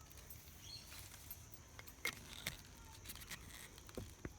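Faint light clicks and rattles of a hose pipe's plastic fitting being handled and fitted onto a new outdoor tap, a few separate clicks, the clearest about two seconds in and near the end.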